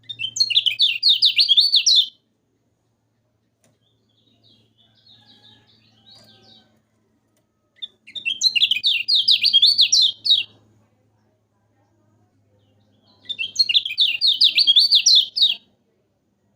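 Kecial kuning singing: three bursts of rapid, chattering high notes, each about two seconds long, with a faint call between the first two.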